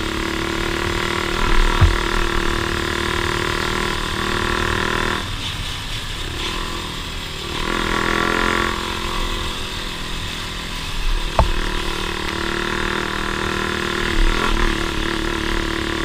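Off-road vehicle engine running steadily, easing off about five seconds in and revving up again around eight seconds. A few sharp knocks come through, one a couple of seconds in and another past eleven seconds.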